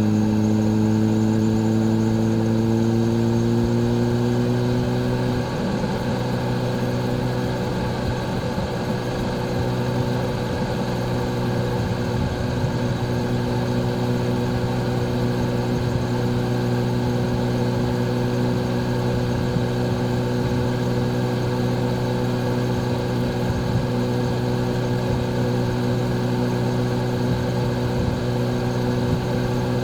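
Kawasaki Z H2's supercharged inline-four engine running at a steady pitch, rising a little over the first few seconds and then holding even.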